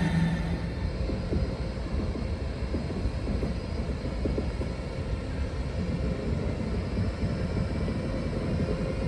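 A train running on the track: a steady low rumble with many faint wheel clicks. A humming tone fades out in the first half second.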